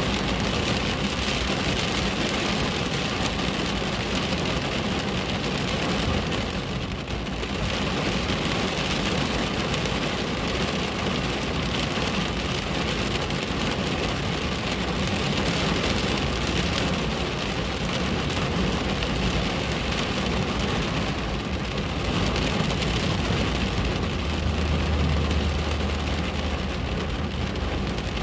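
Steady rain pattering on a window pane, an even hiss with a brief lull about seven seconds in. A low rumble comes in near the end.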